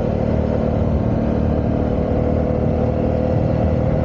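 Honda CB125R's single-cylinder 125cc engine running at a steady speed on the move.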